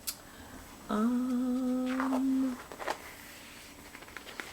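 A woman hums one steady note for about a second and a half, starting about a second in, with a few faint clicks around it.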